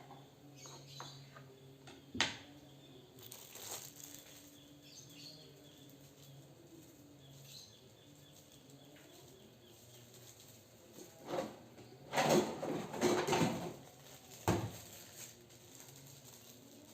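Kitchen handling noise: a single sharp knock about two seconds in, then a busy stretch of clattering and rustling a little past the middle, with a last knock near the end.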